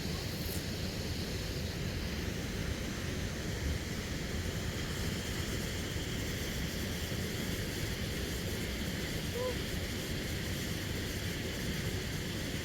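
Wind rumbling steadily on the camera's microphone over a constant rushing hiss outdoors.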